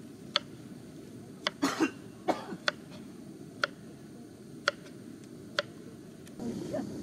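A person coughs twice, close together, about two seconds in. Sharp single clicks or taps sound about once a second, over a steady low background rumble.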